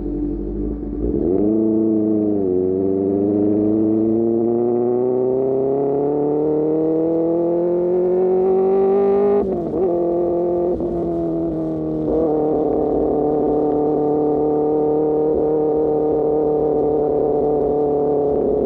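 Superbike engine through an Austin Racing GP1R exhaust under way. The revs dip and pick up about a second in, then climb steadily for several seconds as the bike accelerates. They fall sharply at a gear change about halfway through and settle into a steady cruise for the rest.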